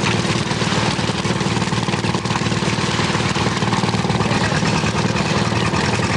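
Fishing boat's engine running steadily, with a fast, even low pulsing.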